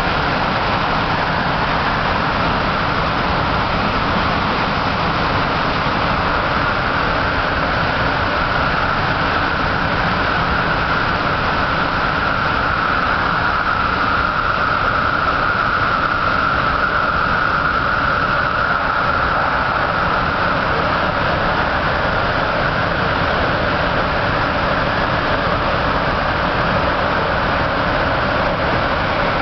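MTR MLR electric multiple unit train running at speed, heard from inside the car: a steady, loud rush of wheel and running noise with a whine that swells through the middle and eases off. A faint lower tone comes in near the end.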